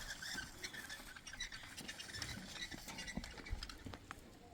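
Rain pattering: scattered drops ticking irregularly, with faint high chirps.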